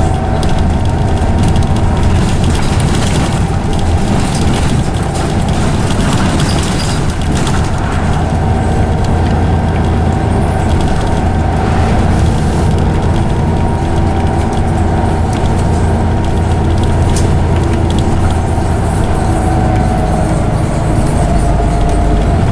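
Scania OmniCity bus under way: a heavy low engine rumble with the loud whine of its ZF automatic gearbox, a steady high tone that shifts slightly in pitch near the end.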